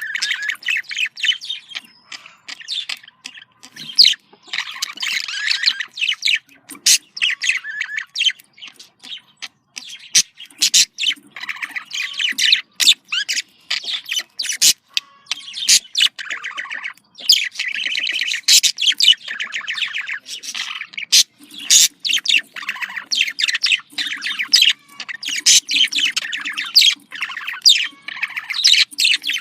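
Budgerigars chattering and warbling: a dense run of quick chirps, clicks and short squawks that goes on with only brief pauses.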